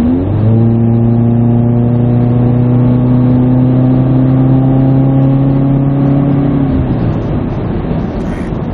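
Exhaust drone heard inside the cabin of a naturally aspirated 2017 Subaru Forester with a Nameless Performance muffler delete, under hard throttle. The engine note climbs sharply right at the start, then holds almost steady with a slight rise for about six seconds while the car gathers speed, and drops away near the seven-second mark as the throttle comes off, leaving road noise.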